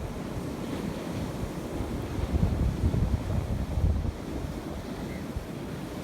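Sea surf washing in, with wind buffeting the microphone; the wash swells in the middle and eases after about four seconds.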